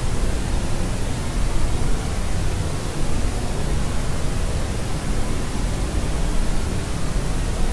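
Steady white noise, an even rushing hiss with the most weight in the low end, unchanging and without any pitch or rhythm.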